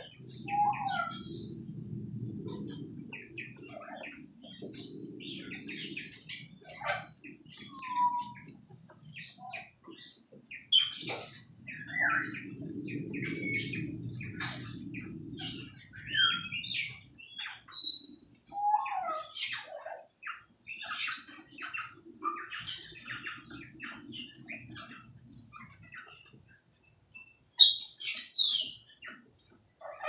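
Aviary birds chirping and calling: a busy mix of short, sharp chirps, with a few louder calls near the start, about eight seconds in, and near the end. A faint low rumble comes and goes underneath.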